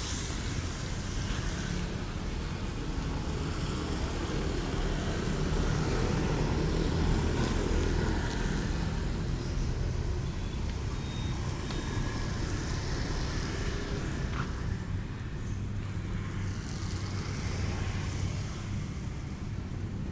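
Yamaha Vixion R's single-cylinder engine running steadily while riding, with wind rushing over the microphone.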